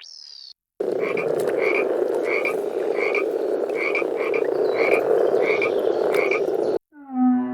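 Animal calls: a dense, steady chorus with a higher short call repeating about every 0.7 s. It starts under a second in and cuts off suddenly near the end.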